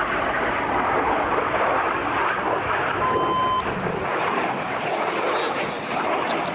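BAE Hawk T1 jets flying overhead, a steady loud jet rush. A short electronic beep sounds about three seconds in.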